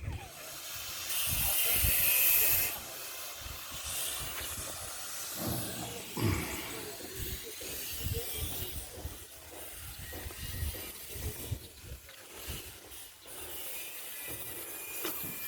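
Wind rushing and rumbling on the microphone, with a louder hissing gust about a second in.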